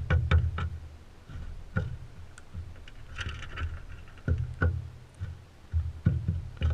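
Crimson rosellas pecking and knocking at seed on a feeder close to the camera: irregular taps and knocks with dull thuds, and a brief high chatter about three seconds in.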